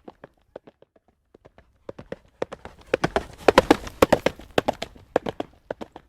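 Horse trotting on a hard road, iron-shod hooves clip-clopping in a steady rhythm. The hoofbeats are fainter at first, grow louder and denser toward the middle, then ease off again.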